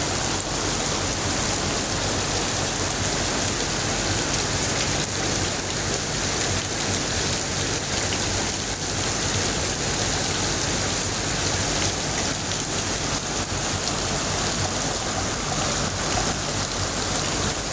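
Heavy rain pouring down, a steady, even wash of noise that does not let up.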